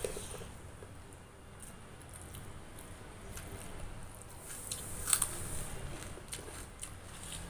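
Close-up eating sounds: a person chewing a handful of rice and curry eaten by hand, with wet mouth clicks and a sharper click about five seconds in.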